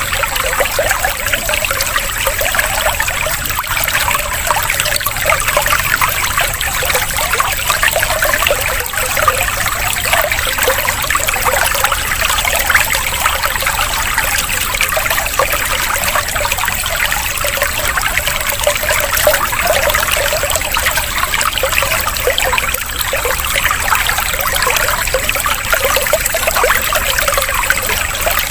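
Water trickling steadily without a break.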